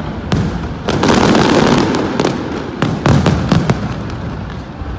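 Aerial fireworks going off in quick succession: a run of sharp bangs and booms with crackling between them, thickest about a second in and again around three seconds in.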